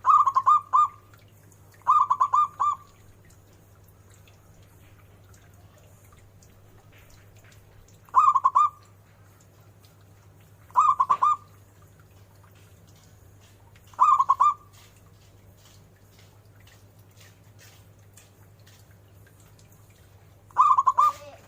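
Zebra dove (perkutut) cooing: six short phrases of quick repeated notes, each under a second, at uneven intervals, over a low steady hum.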